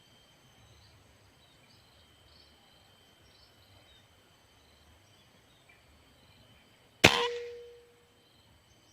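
A single air rifle shot about seven seconds in: one sharp crack with a short ringing tail. Before it, small birds chirp faintly.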